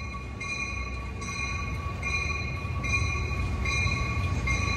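Amtrak San Joaquin train with an F59PHI diesel locomotive pulling out: its bell rings steadily, a fresh strike about every 0.8 seconds, over the low rumble of the train getting under way, which grows louder.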